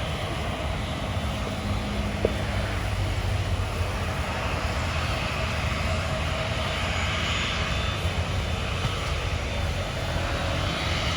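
Airliner engines running, a steady rushing noise over a low rumble, the higher hiss growing stronger in the second half.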